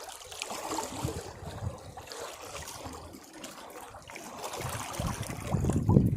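Sea waves washing against rocks: water sloshing and trickling back, then a wave surging in, louder and deeper, near the end.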